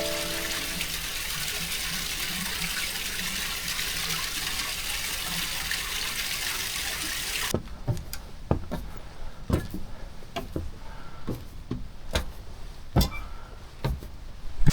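Steady rushing water for about the first half, which cuts off suddenly; then a hiker's footsteps on the trail, irregular steps about every half second to a second.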